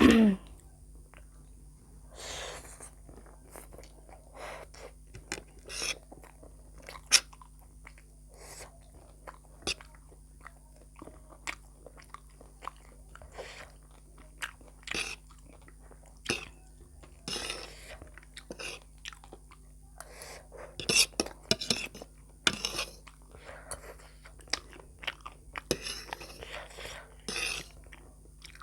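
Close-up eating sounds: a person chewing and biting food, with crunching and wet mouth clicks at an irregular pace.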